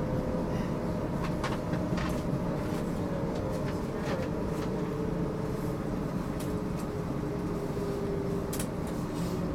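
Interior of a GTL8 tram running, a steady rumble under a faint motor whine that slowly drops in pitch, with scattered short clicks from the wheels and car body.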